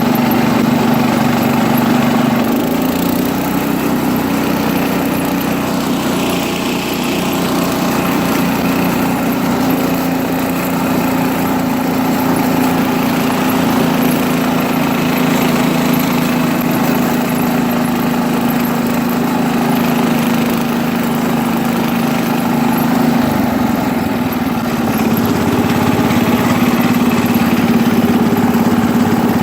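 1973 International Harvester Cub Cadet 86 garden tractor's single-cylinder Kohler engine running steadily as it drives along. The engine note dips briefly about three-quarters of the way through, then settles back.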